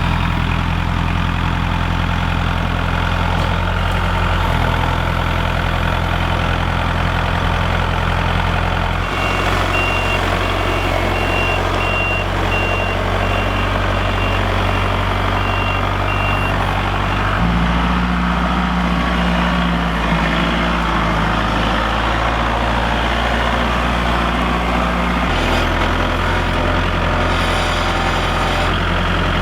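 Kubota L47 tractor-loader-backhoe's diesel engine running steadily, its pitch shifting a few times as the engine speed changes. A reverse alarm beeps at a regular pace for several seconds starting about a third of the way in.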